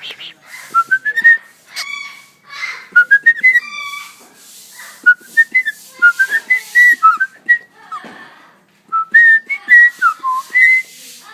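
Cockatiel whistling phrases of short, quick notes that step upward, with a few short hissy sounds in between; the owner calls this its way of calling the cat.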